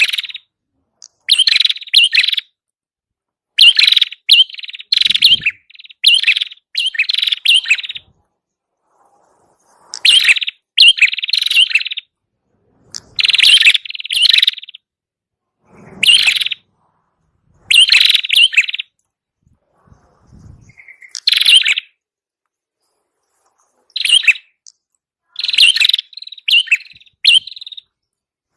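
Loud bursts of sharp, rapid chirping from the small songbird known in Indonesia as prenjak kepala merah, each phrase lasting under a second and repeated every one to two seconds with short pauses between. It is played as a lure call for trapping.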